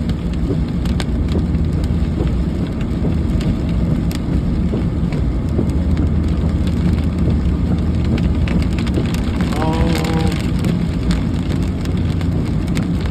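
Rain falling on a car, with scattered sharp ticks of drops hitting, over the steady low rumble of the car.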